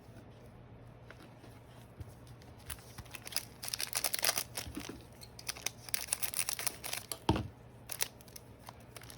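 Crinkling and crackling of a foil trading-card pack being handled and torn open. The crisp crackles start about three seconds in and run densely for several seconds, followed by a soft thump, over a steady low hum.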